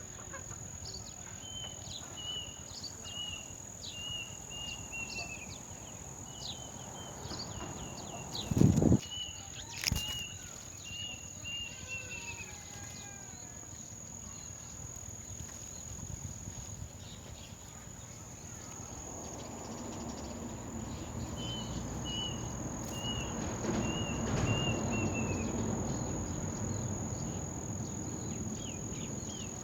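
A steady, high-pitched insect drone, typical of crickets, with three runs of short repeated chirps about two a second that drop in pitch at the end of each run. A loud thump comes about nine seconds in, followed by a sharp click.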